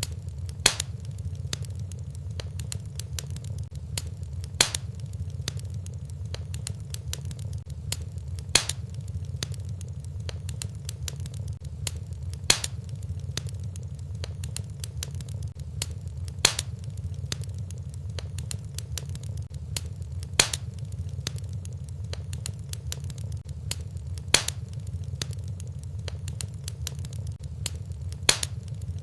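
Wood fire in a fireplace burning with a steady low rumble and constant small crackles, and a sharp loud pop about every four seconds at even spacing.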